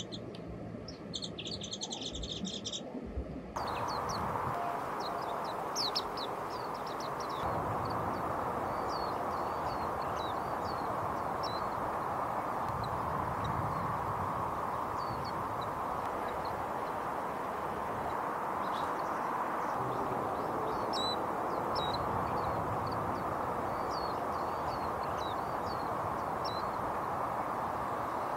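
Small wild songbirds chirping: dense repeated chirps at first, then after a cut about three and a half seconds in, scattered short high chirps over a steady background hiss.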